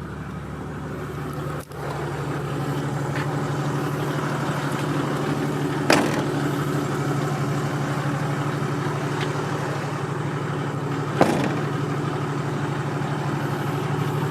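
Toyota Land Cruiser's 4.2-litre 1HD turbo diesel inline-six idling steadily. Two sharp knocks come over it, about six seconds in and again about eleven seconds in.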